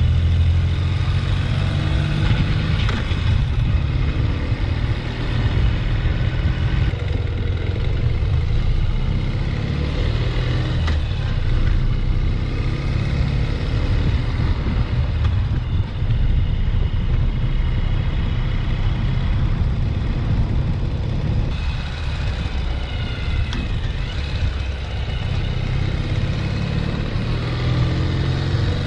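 Motorcycle engine running steadily during a ride, with heavy low rumble and a few shifts in engine speed.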